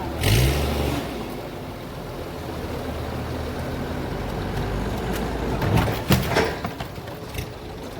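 A motor engine running steadily. Just after the start it rises briefly in pitch with a sharp hiss, and around six seconds in there are a few louder, sudden bursts of noise.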